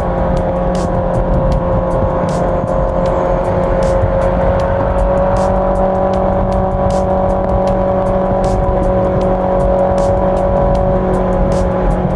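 Honda CB650R's inline-four engine running at a steady cruise, its drone holding one pitch throughout, over low wind and road rumble.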